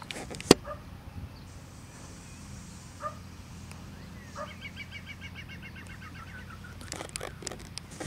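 Outdoor birdsong: a few short call notes and, in the middle, a rapid trill of about eight chirps a second lasting about two seconds, over a steady low hum. A single sharp click about half a second in.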